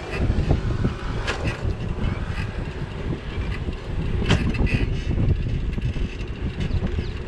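Wind buffeting the microphone of a bike-mounted action camera while cycling, a steady low rumble, with a few sharp clicks or knocks from the ride.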